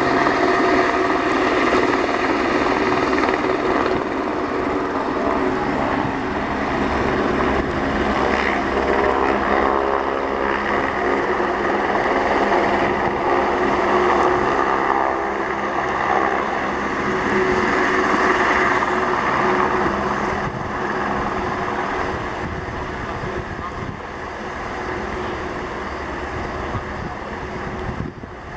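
Helicopter (AS350 Esquilo) rotor and turbine engine running steadily and loud, with a constant hum of pitched tones over a rushing noise. It eases off somewhat about two-thirds of the way through.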